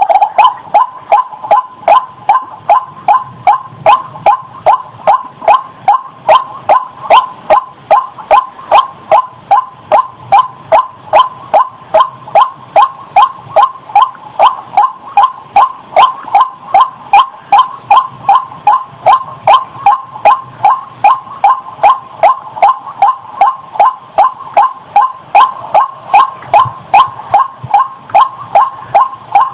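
White-breasted waterhen calling: a long, unbroken series of short, identical notes repeated at an even rhythm of about two and a half a second.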